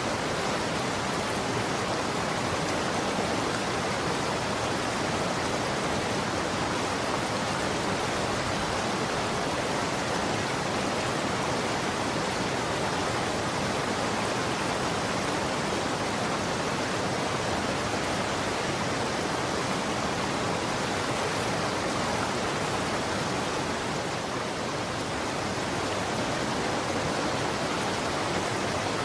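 Running water flowing steadily: a continuous, even rushing with no breaks or separate splashes.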